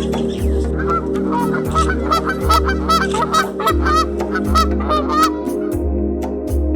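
Geese honking in a quick, overlapping run of short calls for about four seconds, over background music with a steady low beat.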